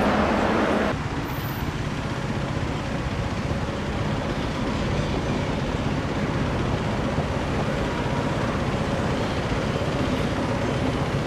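Double-deck electric train rolling steadily across a steel railway bridge: a continuous, even rumble. It is blended with city traffic noise, after a louder passage cuts off about a second in.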